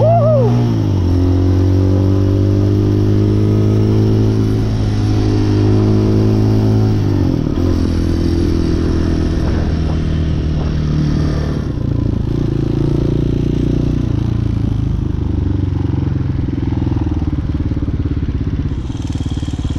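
A 250cc dirt bike's engine heard while riding. It runs at a steady speed, the revs drop about seven seconds in, and it then runs lower and more unevenly, with wind and road noise.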